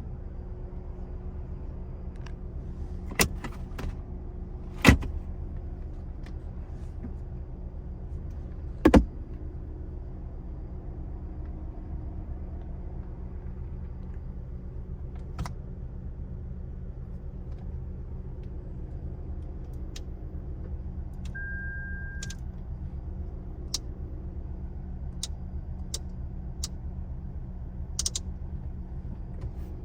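Cabin of a 2026 Toyota Tacoma Trail Hunter: a series of sharp clicks and knocks from interior controls and latches being worked, the loudest two about five and nine seconds in. They sit over a steady low hum, with one short electronic beep a little after twenty seconds in.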